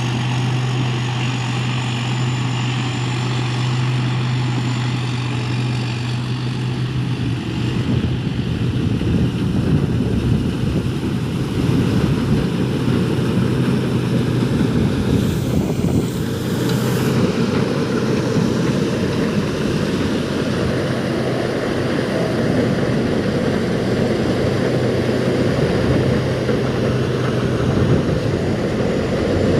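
A steady motor hum under a strong rush of air. The hum drops back about seven seconds in as the rushing noise grows and carries on evenly.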